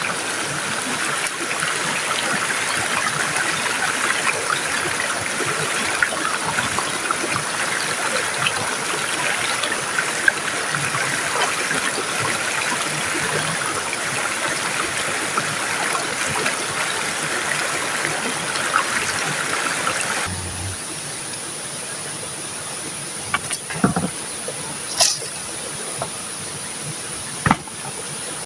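River water flowing and babbling steadily, with a constant high-pitched whine above it. About twenty seconds in the water noise drops away suddenly, leaving the high whine and a few sharp knocks.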